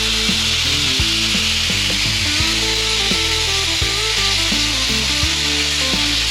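Plasma cutter cutting steel plate, a steady loud hiss from the arc and air jet, with background music underneath.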